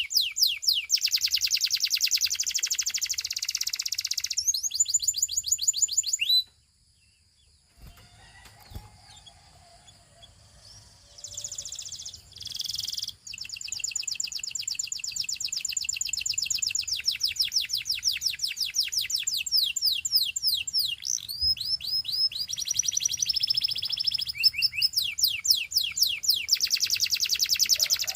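Domestic canary singing in fast trills of rapidly repeated, high, downward-sweeping notes. The song stops for about five seconds a quarter of the way in, then starts again and runs on in long rolling trills.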